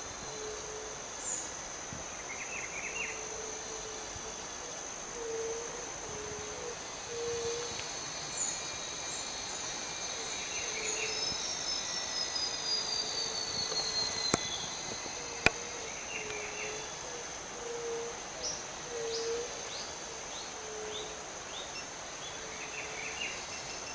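Forest ambience: a steady high insect drone throughout, over short low notes repeated every second or two and scattered bird chirps, with a bird's falling trill around the middle. Two sharp clicks a little past the middle.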